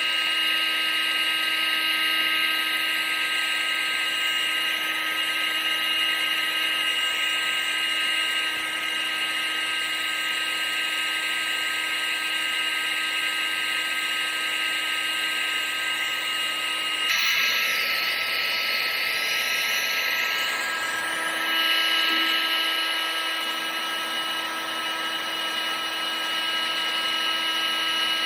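Vacuum cleaner motor running steadily: a high whine over rushing air. About seventeen seconds in, the whine's pitch shifts suddenly, then runs on steady.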